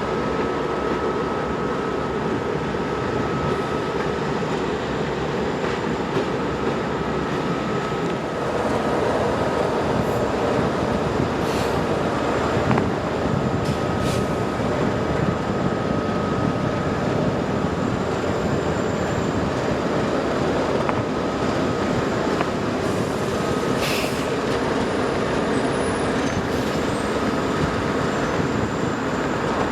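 Freight train's cars rolling past on the rails, a steady rumble that grows a little louder about eight seconds in, with a faint high steady whine and a few sharp clicks over it.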